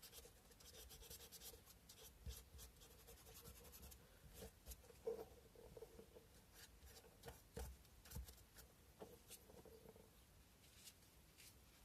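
Sandpaper rubbed by hand over a carved cow-bone fish hook: faint, irregular scratching strokes with a few light taps.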